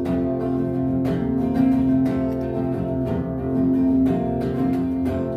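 Acoustic guitar strummed, its chords ringing on between strokes, in an instrumental break between sung verses.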